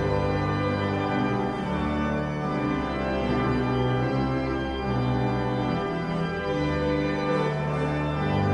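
Church organ playing slow, sustained chords, the notes held and changing together about every second, over a stepping bass line.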